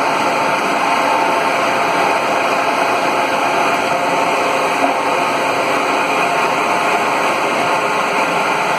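Steady, loud machinery noise of a solid-fuel fired steam boiler plant running, a constant rushing hum with faint steady tones from its fans and pumps.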